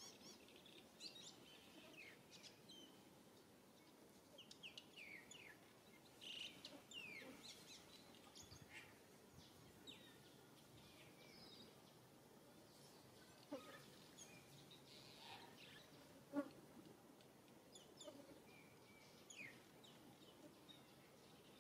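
Faint small-bird chirps: short falling whistles scattered throughout over a quiet background, with a single sharp click about sixteen seconds in.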